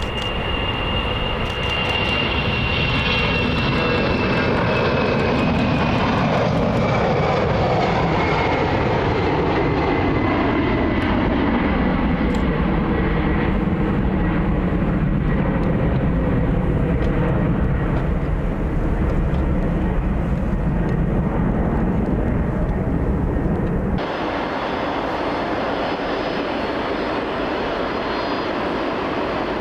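Jet airliner's engines passing close by: a high whine and a deep rumble both slide slowly down in pitch as it goes past. About 24 s in the sound cuts abruptly to a quieter, steadier engine noise.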